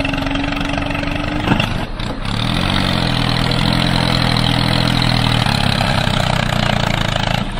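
Engine running steadily. About two seconds in there is a short break, then a deeper engine note rises and holds for a few seconds.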